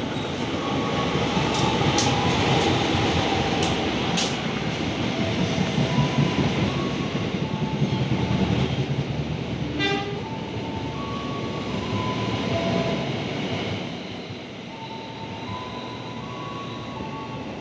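Serayu passenger train, hauled by a diesel-electric locomotive, running along the station platform. The rumble and wheel clatter build as it comes in, are loudest while the coaches pass, and ease off a few seconds before the end as the last coaches roll by.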